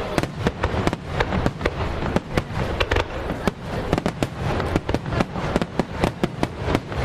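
Starmine fireworks barrage: a rapid, continuous string of shell bursts, several sharp bangs a second over a steady rumble.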